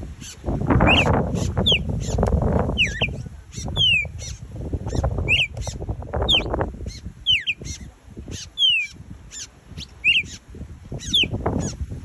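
Red-crested cardinals calling: a short, sharp whistled note sliding downward, repeated about once a second. Bursts of low rumbling noise come and go underneath.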